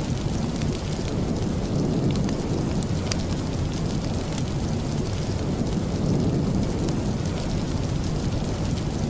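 Steady rain, a dense even hiss with a deep low rumble under it, and a few faint sharp ticks now and then.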